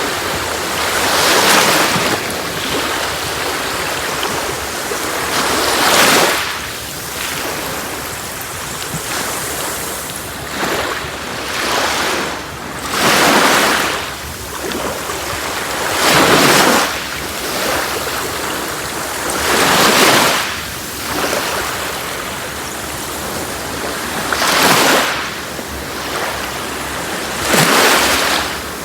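Sea waves breaking on a beach: a steady rush of surf that swells with each wave every three to five seconds.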